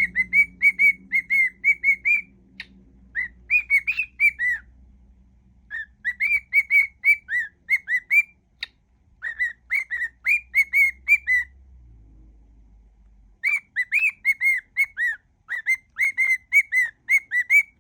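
Cockatiel whistling a tune in quick, evenly paced notes, about four or five a second, in phrases broken by short pauses and a longer pause about two-thirds of the way through.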